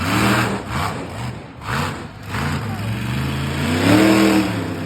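Supercharged, alcohol-fuelled monster truck engine revving in repeated bursts. The pitch rises and falls several times, and the loudest rev comes about four seconds in.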